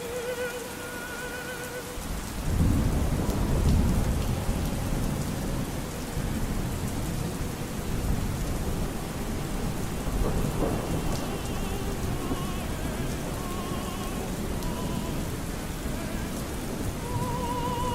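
Steady rain with a long roll of thunder that starts a couple of seconds in, is loudest just after, and keeps rumbling. Faint operatic singing with vibrato fades out at the start and comes back near the end.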